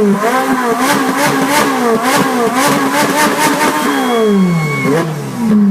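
Supercar engine revved hard in quick repeated blips, about two a second, then its pitch falls away steadily over the last two seconds as the revs drop.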